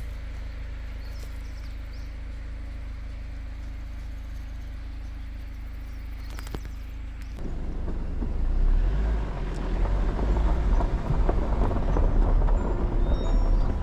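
Jeep Wrangler driving on an unpaved forest road: a steady low engine and road hum, which about seven seconds in turns suddenly louder and rougher, with many small crunches and rattles from the tyres on the rough surface.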